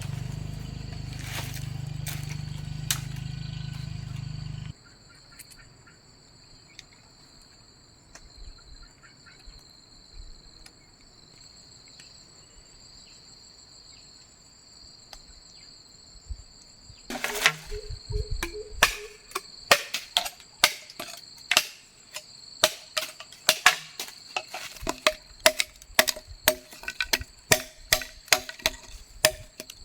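Crickets keep up a steady high trill throughout. A low rumble cuts off suddenly about five seconds in, and from just past halfway come repeated sharp wooden knocks, about two a second, the sound of chopping.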